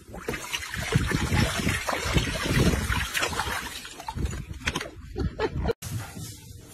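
Water splashing and trickling in a paddling pool as a dog wades in it and bites at the stream from a garden hose. The splashing cuts off suddenly about six seconds in, leaving a quieter, steady hiss.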